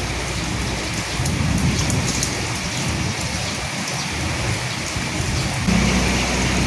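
Steady rain falling on a hard surface, a dense hiss with individual drops ticking through it. A low rumble comes in suddenly near the end and holds steady under the rain.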